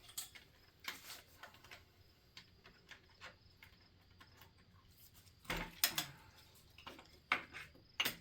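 Scattered light clicks and knocks of hand tools and metal engine parts being handled during an engine teardown, with a louder cluster of clanks a little over halfway through.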